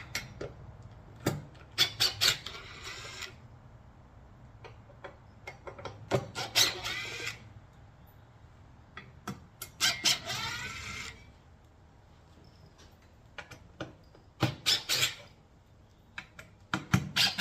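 Steel parts of welded table legs clanking and scraping, in short bursts about every four seconds: sharp knocks followed by about a second of squealing metal-on-metal scraping.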